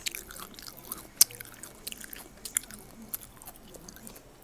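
A person chewing fresh fruit close to the microphone: a run of short wet, crisp mouth clicks and bites, with one sharp crunch about a second in.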